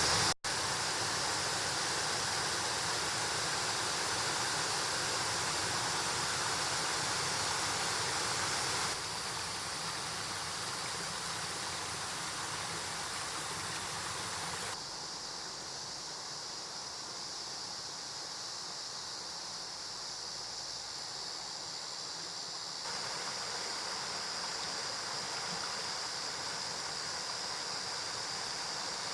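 Mountain stream rushing, a steady wash of water noise with no other sound. It drops out for an instant just after the start, and its loudness changes suddenly about nine, fifteen and twenty-three seconds in.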